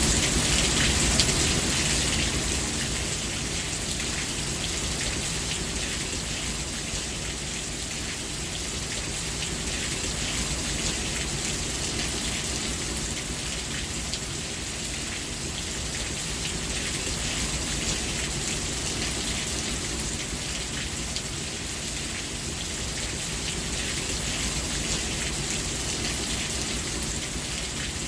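Steady rain falling, with a dense patter of drops hitting a surface. It is a little louder for the first two seconds, then settles to an even level.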